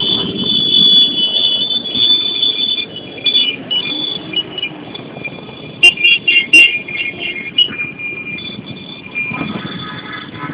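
Motor vehicles running on a city street, with a few sharp clicks about six seconds in.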